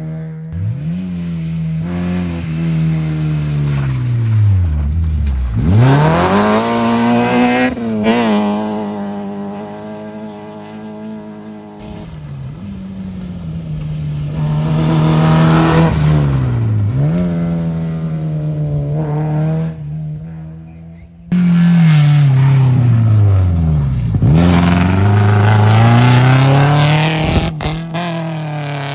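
Rally cars passing one after another at full attack, engines revving hard, with engine pitch dropping sharply and climbing again through gear changes. The passes are joined by abrupt cuts.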